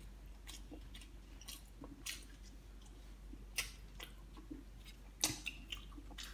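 Close-up chewing of instant fried noodles in soft bread: wet, squishy mouth sounds with many small irregular clicks, and two sharper clicks stand out, about three and a half and five seconds in.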